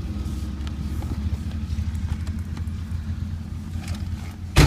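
2000 Pontiac Firebird Trans Am's 5.7-litre V8 with aftermarket exhaust idling with a steady low rumble. A single loud thump comes near the end.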